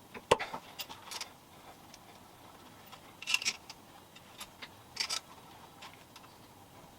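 Scattered sharp clicks and clatter of small hard objects being handled: a loud knock just after the start, then short bursts of clinks about one, three and five seconds in.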